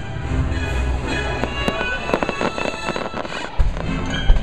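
Aerial fireworks bursting over show music: a quick run of crackling pops around the middle, then two loud booming bangs near the end.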